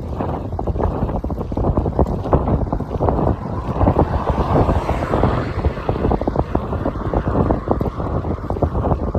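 Wind buffeting the microphone on a moving motorcycle, a loud fluttering rush with road and engine noise underneath.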